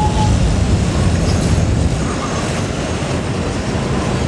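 Train passing close by, its wagons rolling over the rails with a steady, loud low rumble.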